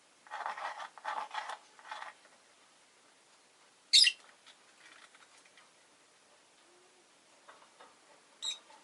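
Rosy-faced lovebird giving a short, sharp, high chirp about four seconds in, the loudest sound, and a fainter chirp near the end. In the first two seconds, three short bursts of rustling or scratching.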